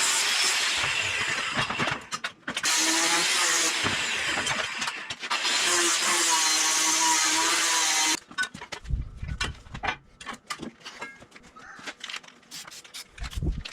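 Drill boring through steel plate with an annular cutter, running under load with a wavering hum and brief dips. It stops about eight seconds in, followed by scattered knocks and clicks.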